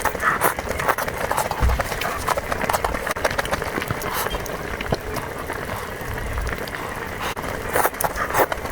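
Close-miked eating sounds: wet chewing with many rapid mouth clicks and smacks.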